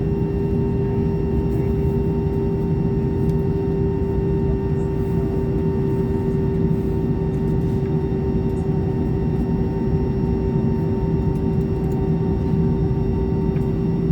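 Airbus A320 cabin noise: a steady drone from the engines and air conditioning, with a constant hum under it. The level holds even, with no build-up.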